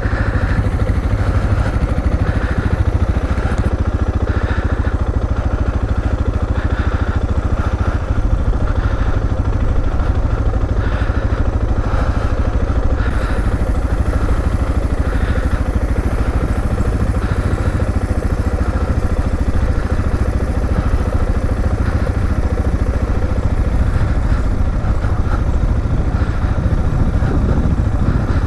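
A motorcycle engine running steadily under a heavy, unbroken low rumble.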